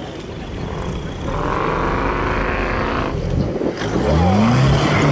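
Off-road competition vehicle's engine working hard, then revving up with a rising pitch from about four seconds in.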